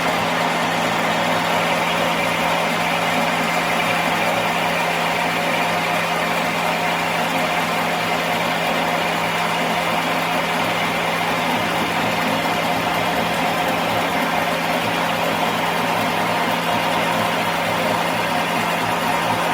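A workshop machine running steadily, with a constant low hum under an even hiss; it switched on just before and does not change.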